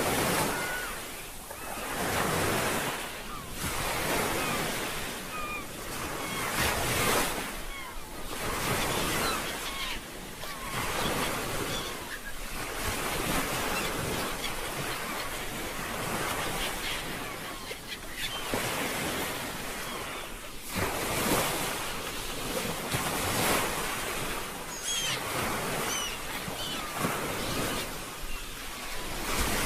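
Ocean surf: waves washing in and falling back in swells every few seconds, with brief high chirps scattered through it.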